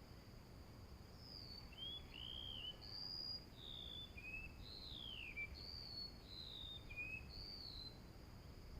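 A small bird whistling a string of short, clear slurred notes, some rising and some falling, about one or two a second. Under it runs a steady high insect trill.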